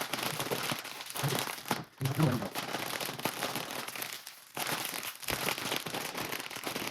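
Crinkly plastic potato-chip bag (Karamucho hot chili chips) being handled and pulled open, the packaging crackling and crumpling.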